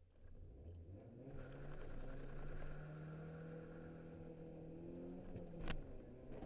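Holden Apollo's engine heard from inside the cabin, building up as the car pulls away and then holding a steady drone. About five and a half seconds in there is a single sharp click and the engine note drops.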